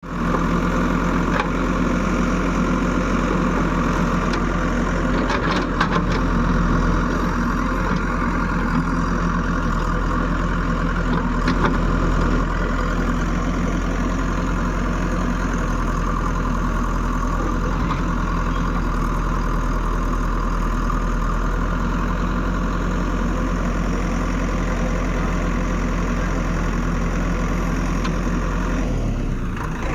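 Heavy machinery running steadily with a constant low engine-like hum, and a few sharp knocks in the first twelve seconds.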